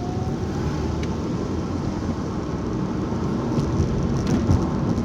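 Car driving, heard from inside the cabin: a steady low rumble of engine and tyres on the road, with a few light knocks from a bumpy road surface.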